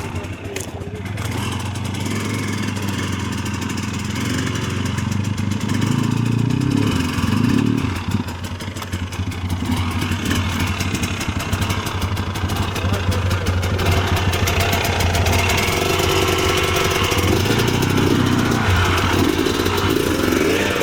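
Enduro motorcycle engine running, its revs rising and falling.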